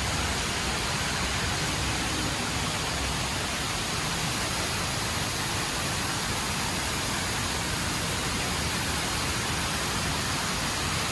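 The HSBC Rain Vortex indoor waterfall: a steady, even rush of falling water.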